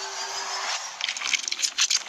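A car's tyres roll over squishy foam toys: steady tyre and engine noise, faintly rising, then from about a second in a quick run of crackling squelches and pops as the toys are crushed.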